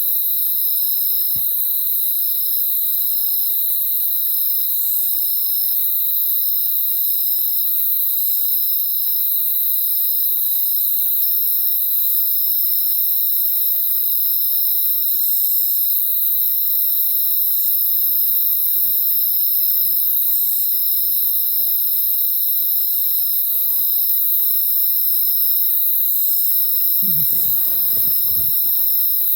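Night insect chorus of crickets trilling steadily in a continuous high-pitched pulsing drone. A few soft, low sounds come through in the second half.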